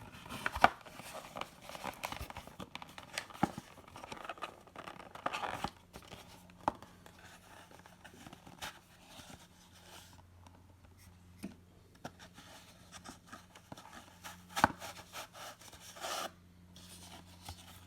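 A cardboard trading-card box being torn open by hand and its contents handled: irregular tearing, scraping and clicks, busiest in the first six seconds, then sparse taps and rustles.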